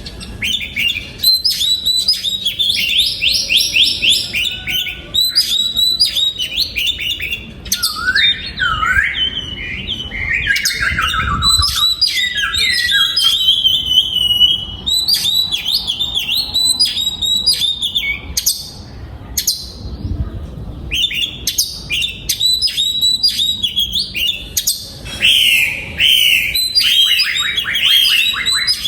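Oriental magpie-robin singing: a long, varied run of whistled phrases, quick trills and rising and falling notes, with a short lull about two-thirds of the way through.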